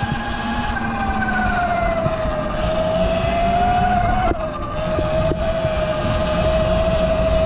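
Segway X160 electric pit bike's motor whining as it is ridden, the pitch sinking and rising with speed and falling off near the end, over a steady rush of wind noise.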